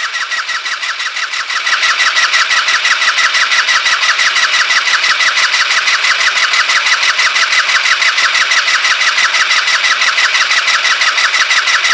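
Kymco Agility 125 scooter's single-cylinder four-stroke engine cranking over on the starter with a fast, even chug, without firing or catching.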